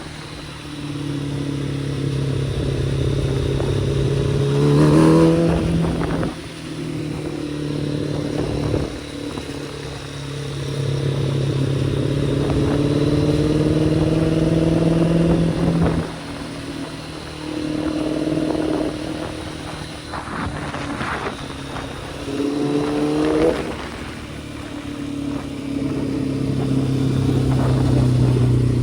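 Kawasaki ZX-10R's inline-four engine under way, mostly held at steady revs. It revs up quickly in a rising sweep about five seconds in and again near the end, with revs falling away in between.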